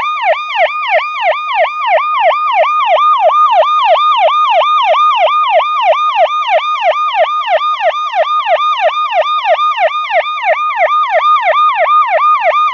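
Ambulance siren sounding in a fast yelp, a loud, even wail sweeping up and down in pitch about three and a half times a second.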